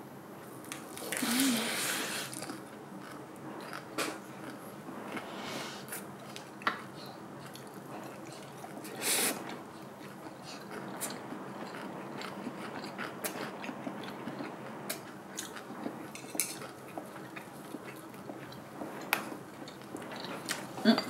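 Close-miked chewing of a big lettuce wrap of stir-fried pork with a raw garlic clove and ssamjang, with wet crunching and small mouth clicks throughout. There is a louder crunch about a second in and another around nine seconds.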